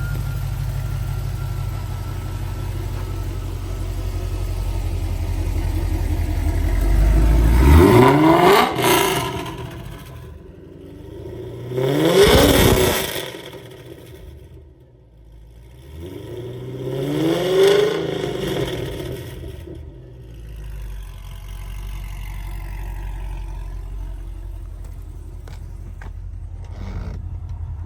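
A 2006 Pontiac GTO's 6.0 L LS2 V8 idling, then revved three times, each time rising in pitch and falling back before it settles to a steady idle.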